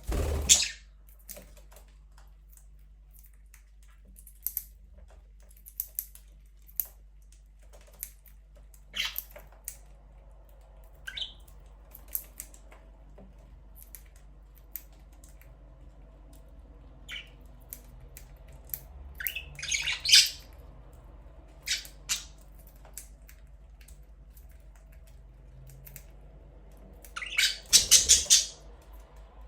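Budgerigars squawking and chirping in short, scattered calls, with louder bursts of calls at the start, about two-thirds of the way through and near the end. A faint steady low hum runs underneath.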